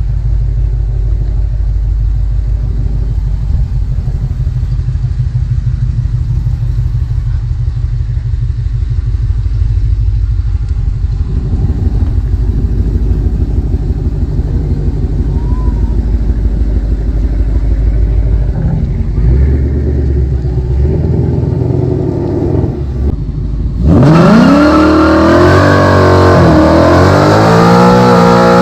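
Car engine idling with a low, steady rumble. Near the end, a loud engine is revved several times in quick succession, its pitch climbing and dropping with each rev.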